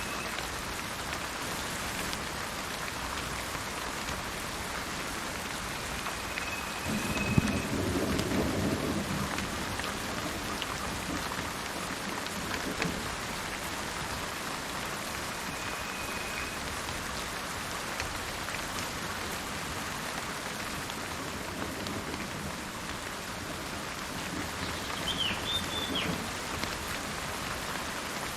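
Steady rain falling, with thunder rumbling about seven seconds in and again more softly near the end. A few short high bird notes sound over the rain.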